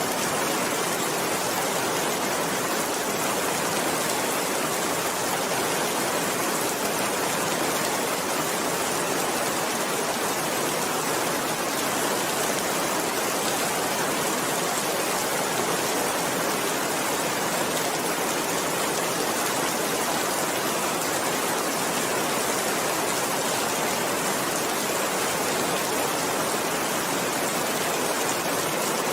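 Steady rain falling, an even, dense hiss that doesn't change or break.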